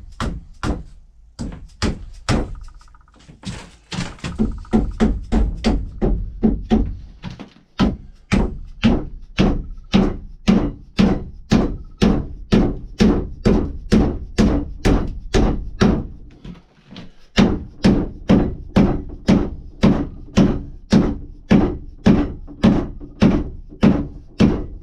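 Hammer driving the wedge into the eye of an axe head to set the handle: steady blows, about two a second, with a brief pause partway through.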